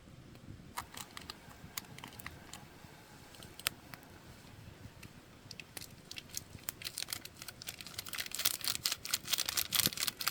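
Wood campfire crackling and popping: scattered sharp pops at first, growing thick and louder over the last few seconds.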